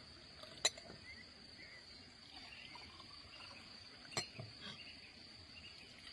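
Insects chirring in a steady high drone, with two sharp knocks: one under a second in and another about four seconds in.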